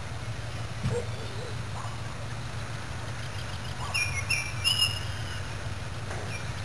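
A bird's few short, high chirping notes about four seconds in, over a steady low hum.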